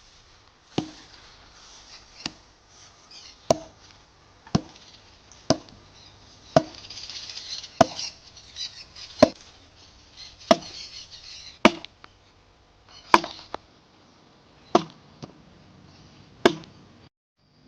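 Wood being chopped with a bladed hand tool: about thirteen sharp blows, roughly one every second or so, at an even pace.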